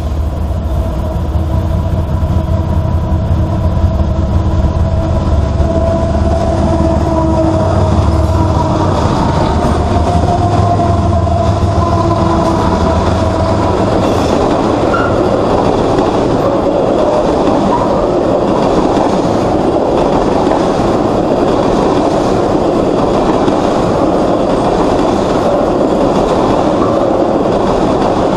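Freight train passing close by. For the first half the diesel locomotives go past with a low engine rumble and a steady whine; from about halfway the tank cars roll by with a continuous rushing wheel-on-rail noise.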